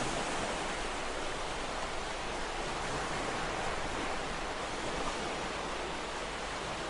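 Ocean waves washing onto a shore, a steady rushing surf with gentle swells in loudness.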